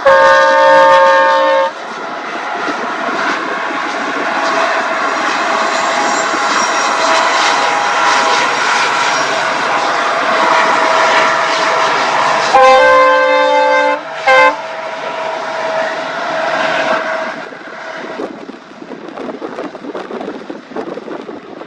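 Locomotive horn of the 14709 Bikaner–Puri Express sounding a long blast, then the long train passing at speed with a steady rush of wheels and carriages. A second long horn blast comes about thirteen seconds in, followed by a short toot, and the train noise then fades away.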